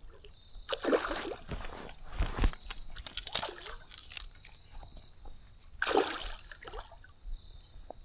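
Water splashing in several loud bursts, about a second in, around three seconds in and again near six seconds: a hooked smallmouth bass thrashing at the surface of a stream.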